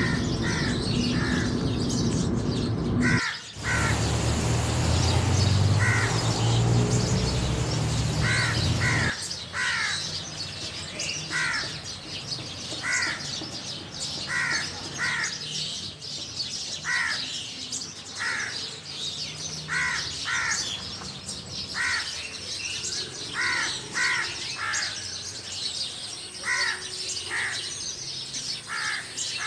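A bird calling over and over: short calls, often in twos, repeating every second or two. A loud low rumble lies under the first nine seconds and then stops.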